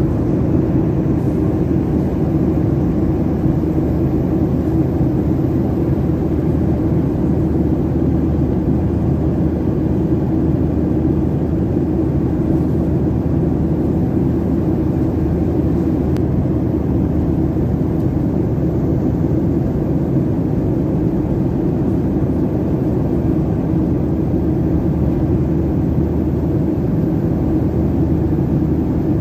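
Steady engine and airflow roar inside the cabin of a Boeing 737-800 in flight.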